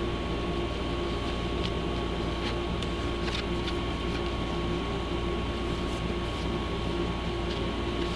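Steady low mechanical hum with a thin high steady tone over it, and a few faint clicks.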